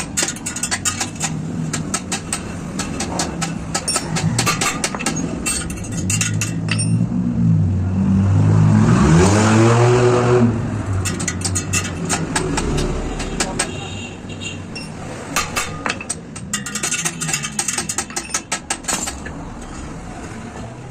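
Repeated sharp metallic clicks and taps of hand work on a wheel. Partway through, a motor vehicle passes close by, its engine note swelling, rising and then falling away.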